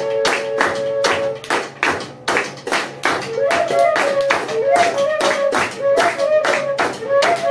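Banda de pífano music: a steady percussion beat, about three to four strokes a second. Over it, two fifes hold a note in harmony for the first second or so, then after a short gap they play an ornamented melody from about three seconds in.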